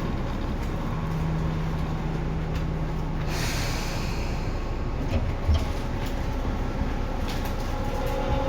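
Interior sound of a Tobu 9050 series electric train: a steady rumble with a low hum, a burst of hiss about three seconds in, and a rising motor whine beginning near the end.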